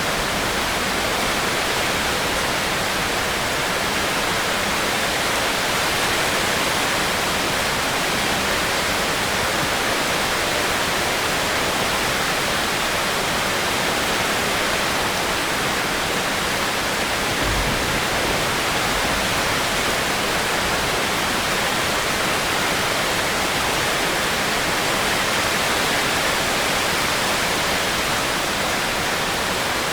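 Steady heavy rain: a dense, even hiss of rainfall.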